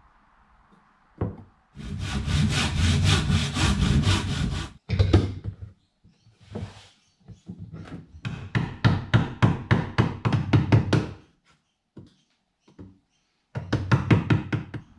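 Hand saw cutting wood in three runs of quick back-and-forth strokes, with pauses between them; the middle run goes at about four strokes a second.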